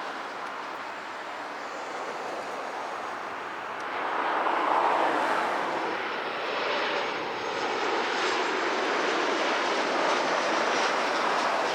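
Jet airliner's engines rushing as it passes, growing louder about four seconds in and holding, with a faint high whine over the roar.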